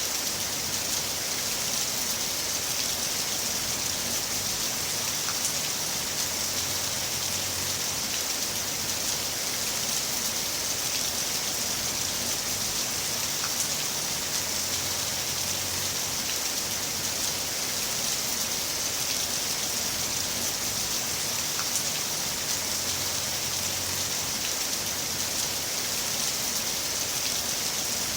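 Heavy rain falling steadily: a dense, even hiss with a few separate drop ticks now and then.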